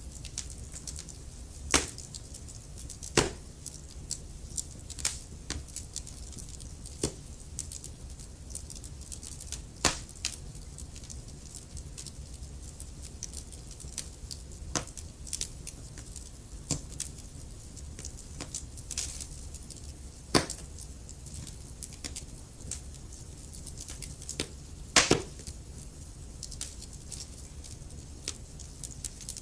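Wood fire burning in a fireplace: logs crackling with irregular sharp pops and snaps over a low, steady rumble of the flames. Louder pops come about two, three, ten and twenty seconds in, and a cluster of them about twenty-five seconds in.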